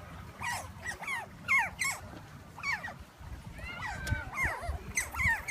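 A small young animal giving a string of short, high-pitched squeaks that fall in pitch, several a second, whimper-like.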